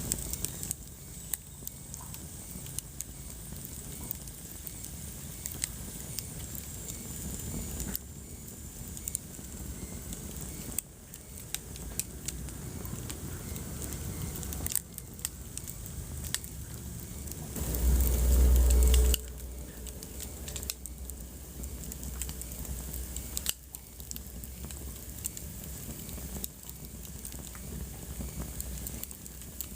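Wood fire in a fireplace crackling, with sharp pops scattered throughout over a steady low rumble. A little past the middle, a loud low rumble swells for a second or so.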